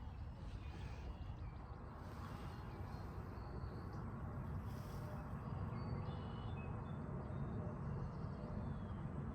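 Open-field morning ambience: a steady low rumble with faint, scattered songbird chirps.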